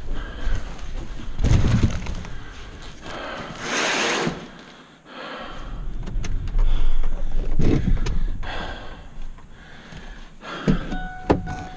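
Thuds and knocks of getting into a pickup truck and shutting a door, with a rushing noise about four seconds in and a thin steady beeping tone starting near the end.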